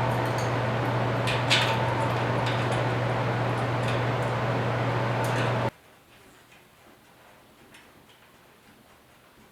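A steady low machine hum with a few sharp clicks over it, which cuts off abruptly about six seconds in. Quiet follows, with faint occasional ticks.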